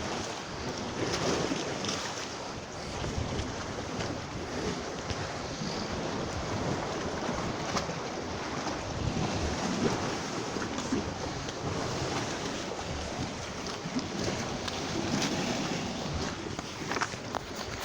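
Sea waves washing, with wind blowing across the microphone.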